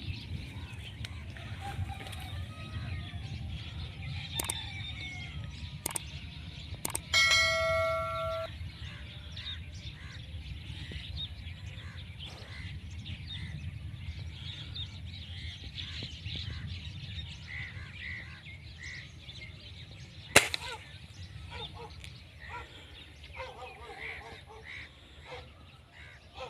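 Birds calling over a low steady outdoor rumble, with a loud ringing tone lasting about a second some seven seconds in and a single sharp crack about twenty seconds in.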